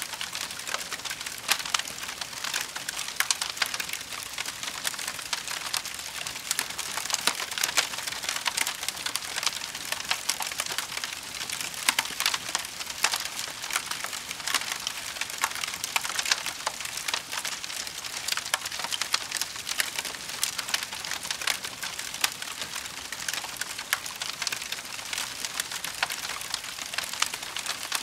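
Campfire burning, the wood crackling and popping: a dense, irregular run of sharp snaps over a soft steady hiss.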